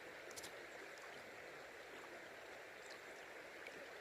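Faint steady rush of flowing river water, with a few faint clicks, the first about half a second in.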